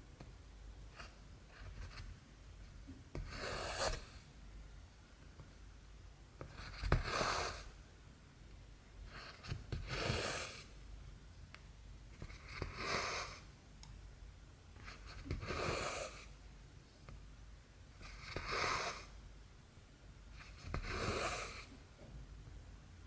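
Cotton embroidery thread drawn through cross-stitch fabric, stitch after stitch: seven soft swishes about three seconds apart, each under a second long, with faint clicks between.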